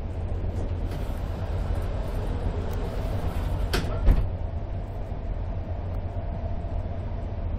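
Steady low rumble of a Z2ABCMg first-class passenger coach running on the rails at speed, heard from inside the compartment, with one short sharp thump about four seconds in.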